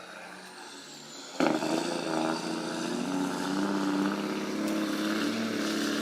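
Heavy logging truck's engine running steadily. It cuts in suddenly about a second and a half in, after a quieter hiss.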